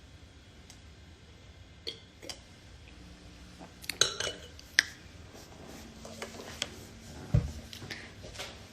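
Handling noise: a few light clinks and taps of small hard objects, the loudest cluster about four seconds in, with a single low thump near the end.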